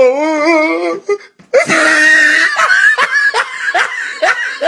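Hearty laughter: a wavering, drawn-out laugh, a brief break, then a run of quick laughing bursts, about three a second.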